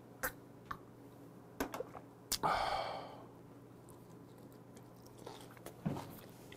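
Close-up mouth sounds of a man drinking a shot of soju and eating: a few small lip and swallow clicks, a breathy exhale about two and a half seconds in, then soft chewing of a gwamegi wrap.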